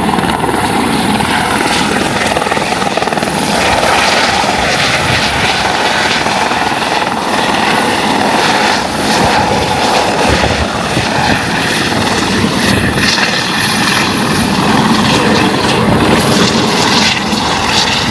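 A tour helicopter running loud and steady close by, its rotor noise overlaid with a thin, steady high whine.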